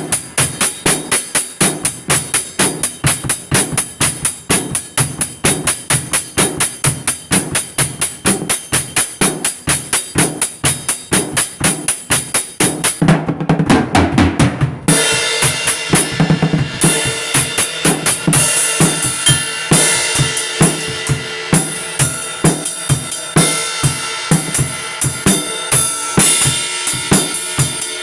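Drum kit playing a steady, quick beat of kick, snare and hi-hat. About thirteen seconds in it breaks into a fill, then the beat carries on fuller, with sustained ringing tones under it.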